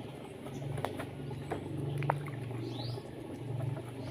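A few short, high, rising chirps from small caged birds, over a low steady hum and a few sharp clicks.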